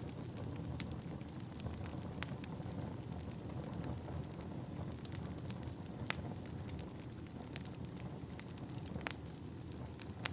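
Wood fire burning in a fireplace: a steady low rumble of the flames with irregular sharp crackles and pops of the burning wood, a few of them loud.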